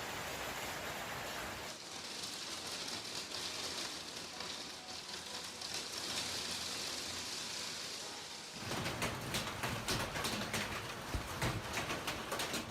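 Heavy rain falling in a steady hiss; about nine seconds in it changes to a dense clatter of separate hard hits, typical of hailstones striking a hard surface.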